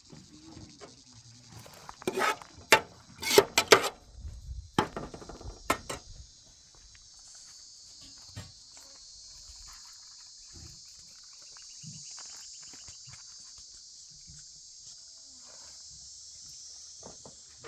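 Steady high-pitched insect chirring throughout, with a cluster of loud, sharp knocks and clatters about two to six seconds in, then a few faint ticks.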